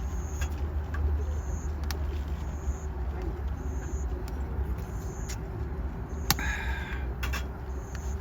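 Wood campfire crackling, with a few sharp pops over a steady low rumble, one pop louder than the rest about six seconds in. A faint short high chirp repeats about once a second.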